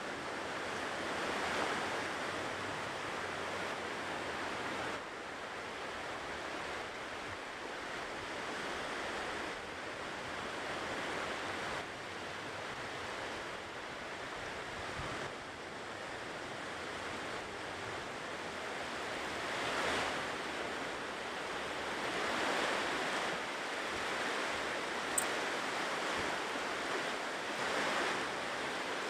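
Ocean surf: waves breaking and washing up the shore in a steady rush that swells and ebbs every few seconds. One brief, sharp high click about three-quarters of the way through.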